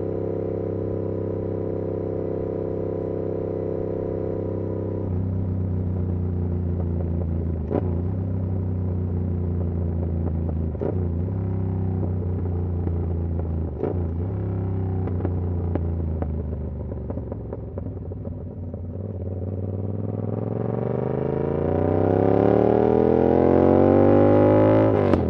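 2022 Yamaha R7's 689cc parallel-twin engine through an SC-Project CR-T exhaust, running at a steady pitch with several brief breaks in the note a few seconds apart. The engine eases off about two-thirds of the way through, then accelerates with a rising pitch near the end.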